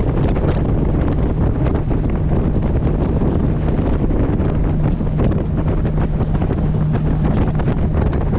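Wind buffeting the microphone over the steady low drone of a moving boat's engine, with water splashing against the hull.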